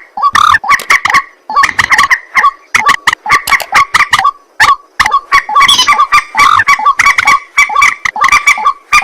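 White-breasted waterhen (ruak-ruak) calling: a loud, rapid series of short, harsh repeated notes, several a second, in runs broken by brief pauses.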